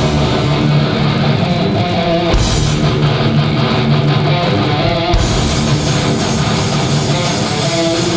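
Hardcore band playing live: a heavy distorted guitar riff with bass and drums, without vocals. The cymbals come back in about five seconds in.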